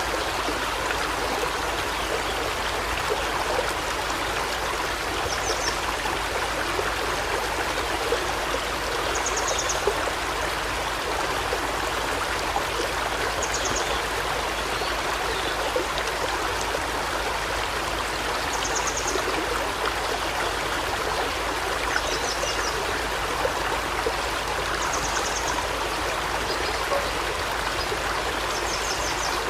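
A forest stream flowing steadily. Over it, a small bird repeats a short, high, rapid trill about every three to four seconds.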